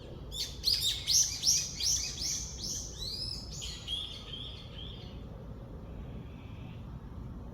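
A songbird singing one phrase: a run of about eight quick, loud, repeated downward-sweeping notes, then a softer, lower trill that fades out about five seconds in.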